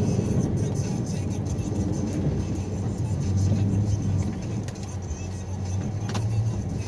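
Plow truck engine running steadily as a low drone, easing off briefly about five seconds in.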